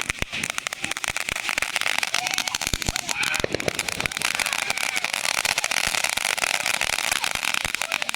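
Fireworks crackling: a dense, continuous run of small rapid pops and snaps.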